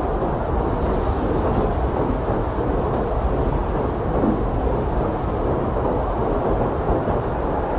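Blizzard wind blowing steadily, a dense low rumbling rush of noise.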